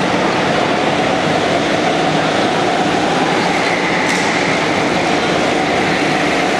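Go-kart engines running on an indoor karting track, a steady loud mechanical drone that echoes in the hall.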